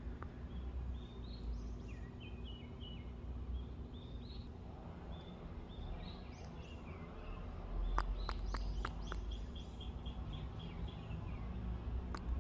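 Small birds chirping in short notes, with a quick run of evenly repeated chirps about eight seconds in, over a steady low rumble. A few sharp clicks come around the same time.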